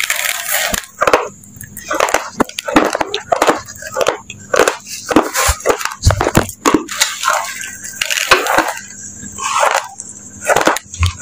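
Raw uncooked rice being chewed up close: a fast run of crisp, cracking crunches as the dry grains break between the teeth.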